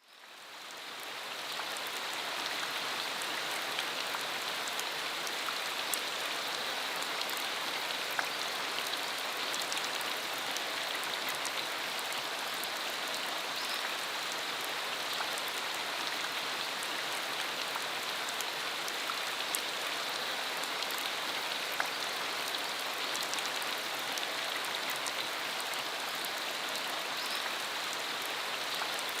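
Steady rain falling, a dense even patter with scattered individual drop ticks. It fades in over the first couple of seconds.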